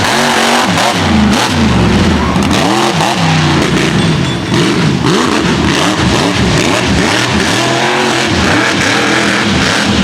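Mega truck engine revving hard, its pitch rising and falling over and over as the throttle is worked through the course.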